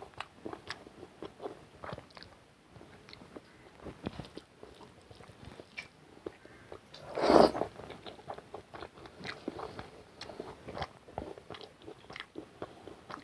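Close-up chewing and mouth sounds of a person eating rice with egg curry and dal: a steady string of short smacks and clicks, with one louder, noisier burst about seven seconds in.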